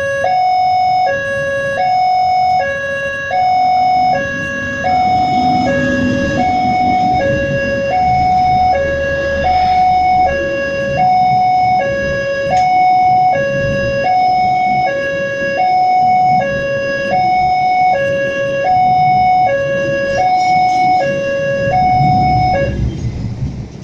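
Electronic railway level-crossing warning alarm sounding a two-tone high-low signal, about one pair per second, over a low rumble; it cuts off abruptly near the end.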